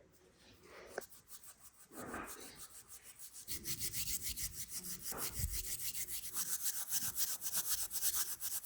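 Fast, rhythmic rubbing or scraping strokes, about five a second, starting quietly and growing steady about three seconds in.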